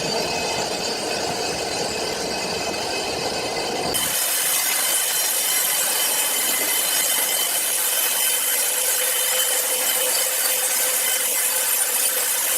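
A saw cutting through a large log, a steady, noisy grinding with faint steady tones. About four seconds in, the sound changes abruptly to a brighter, thinner hiss.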